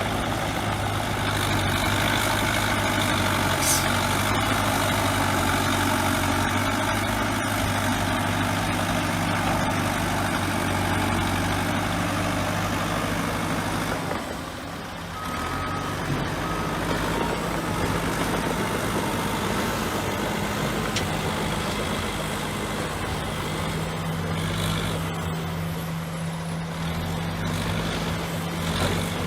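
Crawler bulldozer's diesel engine running steadily at working revs. The engine note dips and shifts about halfway through.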